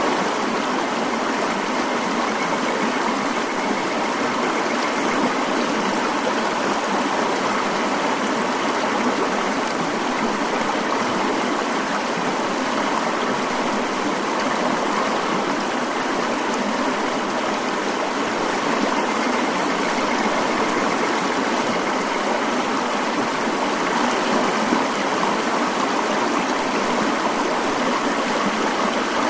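Mountain stream flowing steadily, an even, unbroken sound of running water.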